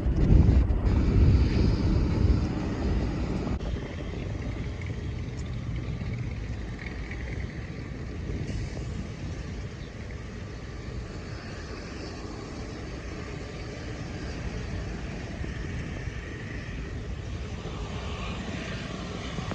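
Wind buffeting the microphone for the first few seconds, then the steady rush of an airplane's engines with faint higher tones that grow stronger near the end.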